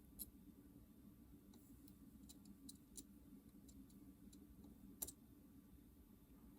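Near silence with a few faint small clicks and taps from soldering work on a circuit board's cartridge-port pins, the loudest about five seconds in, over a low steady hum.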